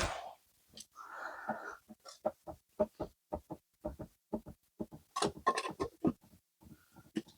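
A series of short, sharp metal clicks and taps from hand tools working on an air-cooled VW engine, coming about three or four a second and bunching together around the middle, after a brief hiss at the start.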